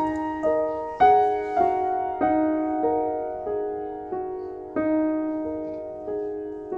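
Background piano music: a slow, gentle melody of single struck notes, one every half second or so, each ringing and fading.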